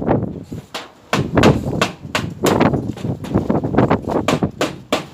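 Hammer blows at an irregular pace, a few a second, on installation work for HVAC ductwork.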